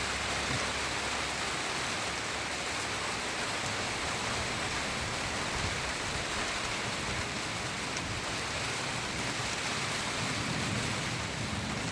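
Steady rain falling and pattering on surfaces, an even hiss with no thunder standing out.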